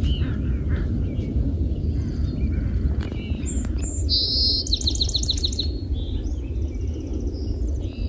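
Songbirds calling and chirping, with a rapid trill of quickly repeated high notes about four seconds in, over a steady low rumble.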